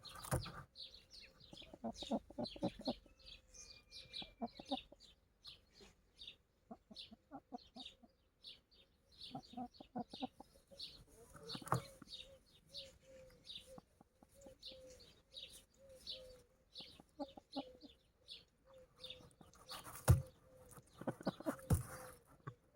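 Chickens clucking: a run of low clucks repeating about twice a second through the middle, with short high chirps throughout. Two sharp thumps near the end.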